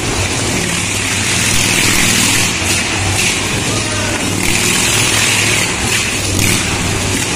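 Motorcycle engines running at a stunt show, a steady loud hum amid a wash of background noise.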